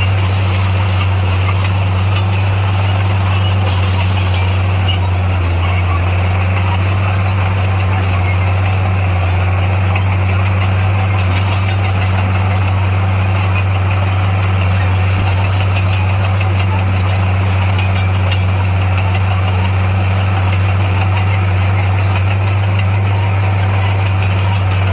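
Heavy earthmoving machine's diesel engine running steadily with a constant low drone, its pitch unchanging.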